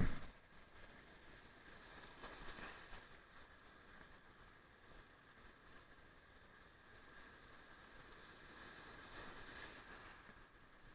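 Sea surf washing in on the shore, an even rushing that swells about two seconds in and again near the end. A sharp knock right at the start.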